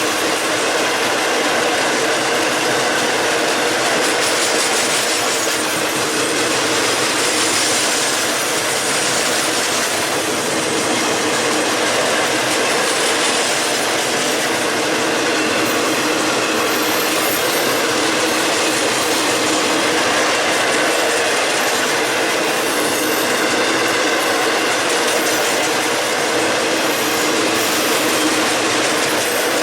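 Freight train cars rolling past on the rails, a steady, unbroken clatter of wheels on track.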